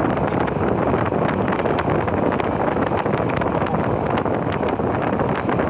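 A London Underground Central line train running, heard from inside the carriage: a steady rumble and rush of wheels on rail with many short sharp clicks.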